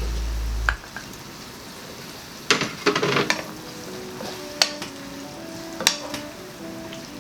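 Sweet and sour sauce with vegetables and pineapple simmering in a wok while a utensil stirs it, scraping and clacking against the pan. There is a cluster of scrapes about two and a half to three and a half seconds in and single sharp knocks near five and six seconds. A low hum cuts off within the first second.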